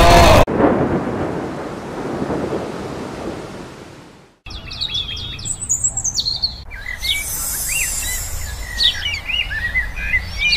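A loud rush of noise fades away over about four seconds. After a brief gap, birds chirp and tweet in quick high calls over a low steady rumble.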